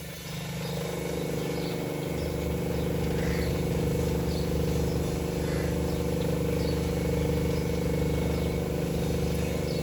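Toyota Corolla GLI engine running steadily at idle. It swells a little during the first second, then holds an even, unchanging note; the car is in the workshop for a noise complaint.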